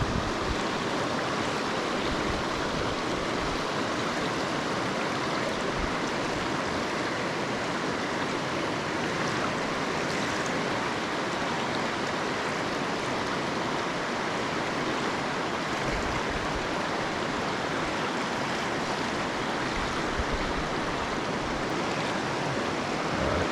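Fast river current rushing over rapids: a steady, even rush of water.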